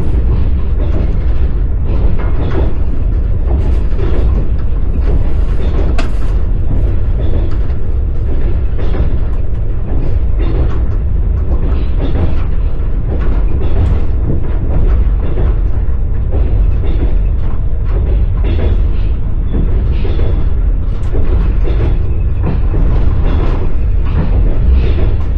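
Passenger train carriage in motion, heard from inside the carriage: a steady deep rumble of the running gear with irregular clacking and rattling of the wheels on the rails.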